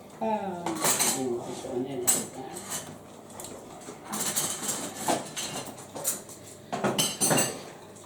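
Dishes and cutlery clattering in a series of irregular clinks and knocks. A short stretch of voice comes right at the start.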